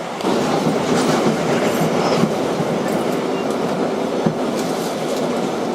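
Kawasaki R-188 subway car heard from inside while under way: a steady running rumble with wheels clacking over the rail joints and a faint steady hum from the Bombardier MITRAC traction motors.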